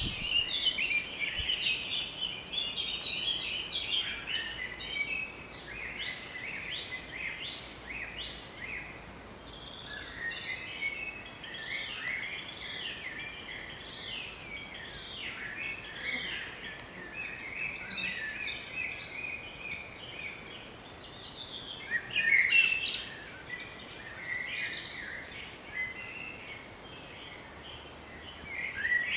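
A chorus of several songbirds singing, with dense overlapping chirps and trills throughout and one louder call about three-quarters of the way through.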